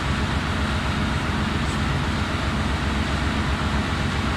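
Steady machinery noise of an engine room: a constant low hum with an even hiss over it that does not change.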